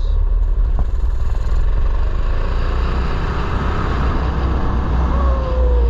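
Mini bike engine running under way, with heavy wind rumble on the helmet-mounted microphone; a single click comes about a second in, and the engine's pitch drops near the end as it slows.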